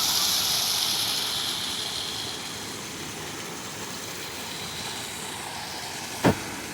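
Waterfall rushing in a steady roar of water, louder for the first couple of seconds and then easing off a little. A single sharp knock comes near the end.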